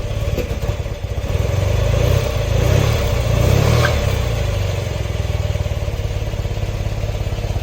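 1974 BMW R60/6's air-cooled flat-twin engine idling just after a cold start, a little rough. It picks up and runs louder from about a second in, then settles back to a steady idle about five seconds in.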